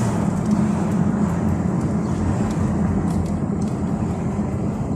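Ford Mustang driving at a steady pace, with its engine running and road and wind noise coming in through the open windows: a constant low rumble with no change in pitch.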